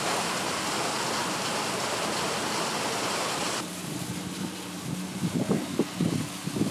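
Steady rain hiss. About halfway through it switches abruptly to a quieter, duller rain sound with a low hum and scattered taps.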